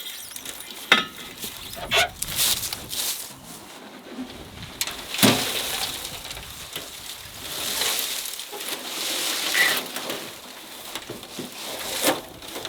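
Rustling and handling noises, with a few sharp knocks spread through, about one second, two seconds, five seconds and twelve seconds in.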